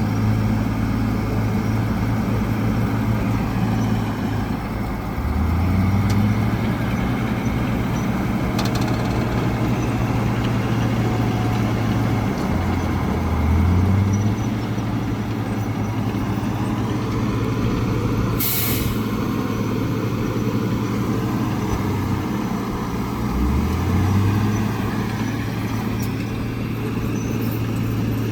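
Heavy diesel engine running steadily, its pitch rising three times as it is throttled up, with one short, sharp air-brake hiss about two-thirds of the way through.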